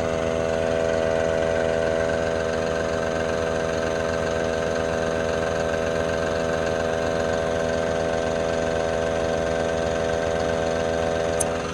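A small portable air compressor running steadily as it inflates a tractor tire. Under it, the John Deere 5075E tractor's diesel engine idles.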